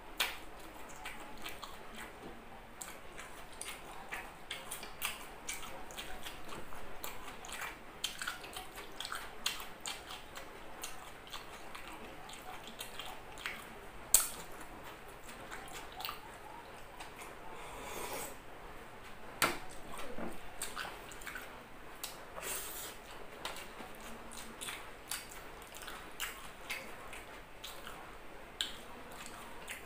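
Close-up chewing and wet mouth sounds of a person eating by hand, with many small clicks and smacks and a sharper click about halfway through.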